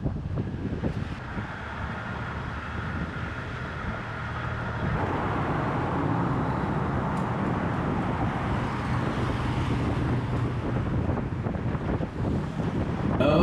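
Car driving on a road: steady tyre and wind noise, growing louder about five seconds in.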